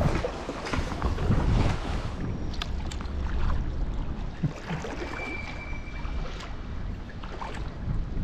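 Wind rumbling on the microphone over water sounds from paddling an inflatable kayak, with scattered small splashes and a brief thin steady whistle about five seconds in.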